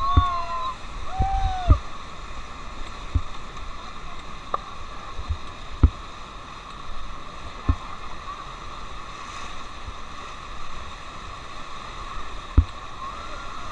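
Steady rush of river water around an inflatable raft being paddled through the Ganga's current, with a few sharp, irregular knocks and a couple of brief voice-like calls in the first two seconds.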